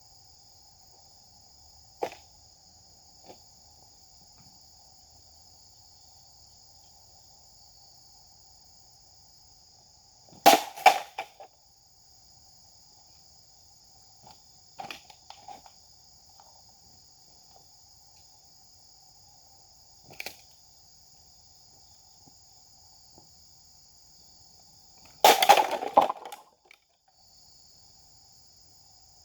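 Japanese sword (katana) being swung and cutting in two sharp bursts, each about a second long: one about ten seconds in and one near the end, with a few small clicks between. Insects keep up a steady high trill underneath.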